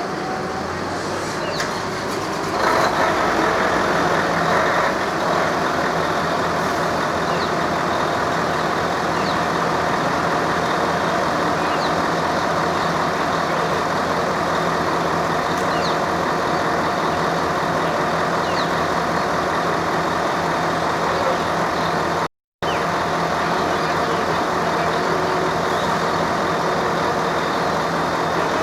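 A large vehicle engine running steadily, getting louder about two and a half seconds in. The sound cuts out completely for a moment about three-quarters of the way through.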